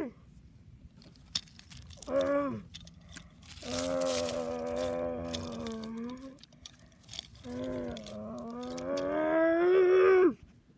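A child's voice making monster-truck engine noises for a toy truck: a short vroom, then a long held one about two and a half seconds, then one that climbs in pitch and cuts off suddenly near the end, with light clicks in between.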